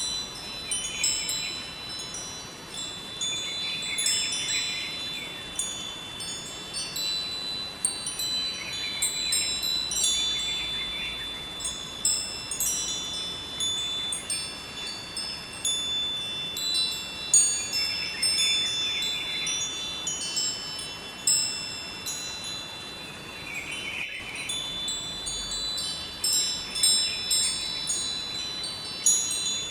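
Wind chimes ringing, struck irregularly in clusters of high notes whose tones hang on for several seconds, over the steady rush of a flowing river.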